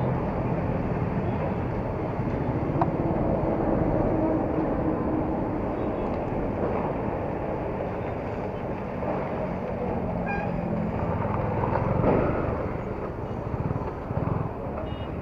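Yamaha R15 motorcycle on the move: its single-cylinder engine running, mixed with steady road and wind noise.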